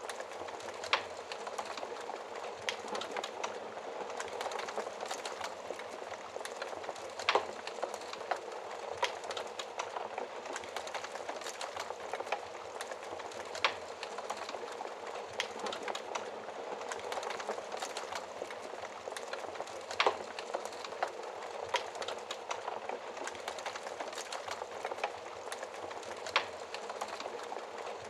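Wood fire in a fireplace crackling steadily, with a louder sharp pop every few seconds.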